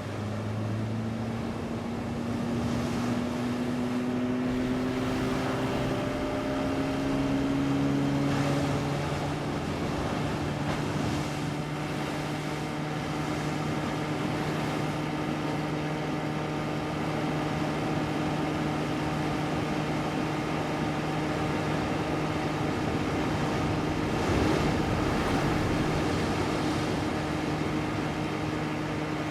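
A boat's motor running steadily, its pitch climbing over the first eight seconds or so as it speeds up, then holding an even drone.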